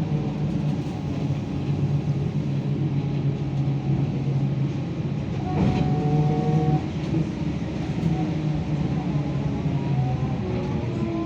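BKM-32102 trolleybus running between stops: a steady electric traction-drive whine over the rumble of the ride. There is a single knock about halfway through, and near the end the whine tones glide in pitch as the speed changes.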